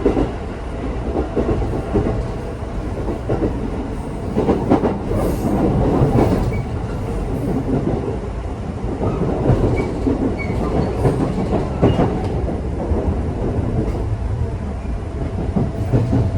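A local electric train on the rails, heard from inside the carriage: a steady low rumble with irregular clicks and knocks from the wheels running over the track.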